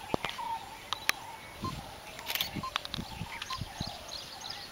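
Birds chirping and whistling in short calls, with a few sharp clicks and several soft low thumps in between.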